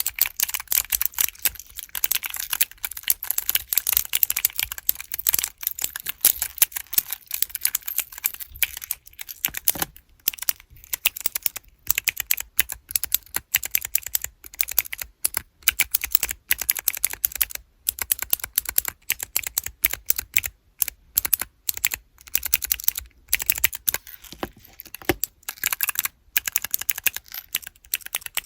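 Keyboard-block keychains with clicky blue mechanical switches being pressed over and over, sharp clicks in fast runs with brief pauses between them.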